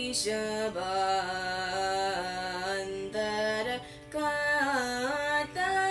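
A young solo voice sings a Carnatic lakshana geetam in raga Hamsadhvani. It holds long notes that step and glide between pitches, with a short break about four seconds in.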